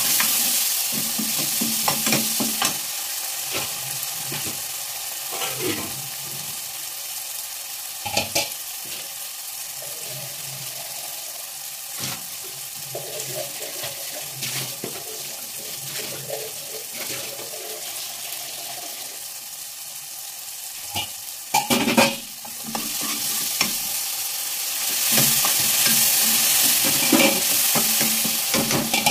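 Chopped tomatoes frying and sizzling in spiced oil in a kadai, with a metal ladle stirring and scraping against the pan. Scattered sharp clicks and knocks come from the ladle, a cluster about 21–22 seconds in, and the sizzle grows louder again in the last few seconds.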